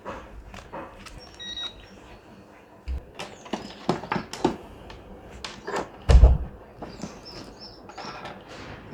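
Scattered small clicks and knocks of handling at a workbench, with one louder thump about six seconds in. Short chirps of a bird come near the end.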